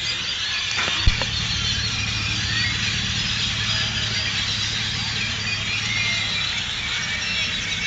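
Dense chorus of many birds chirping and chattering at once, typical of a flock gathering at dusk, over a steady low hum of traffic or an engine. A single sharp knock about a second in.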